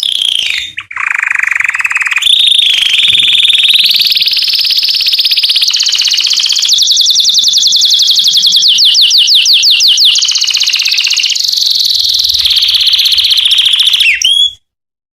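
Canary singing a long, loud song of rapid trills, each held for a second or two before switching to another pitch. The song cuts off suddenly near the end.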